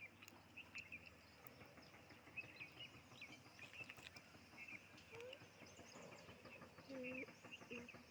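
Quiet outdoor ambience with small birds chirping, short high chirps repeating every second or so.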